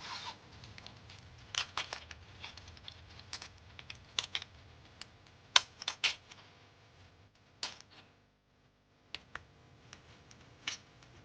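Irregular sharp clicks and taps, a dozen or so, the loudest about five and a half seconds in, with a short quiet gap around eight seconds in.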